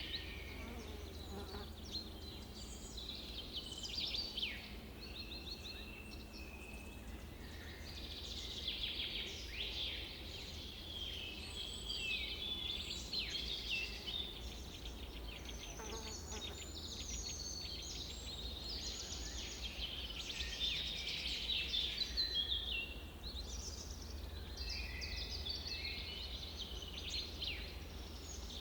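Several birds chirping and trilling in quick overlapping phrases, over a steady low rumble.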